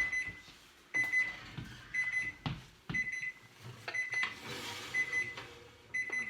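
Oven timer beeping: a quick cluster of high beeps about once a second, signalling that the cooking time is up. A few knocks sound between the beeps.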